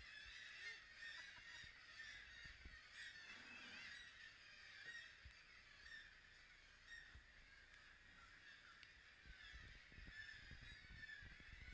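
A seabird colony calling: many birds at once, a dense chorus of overlapping honking calls. Low rumbling comes in near the end.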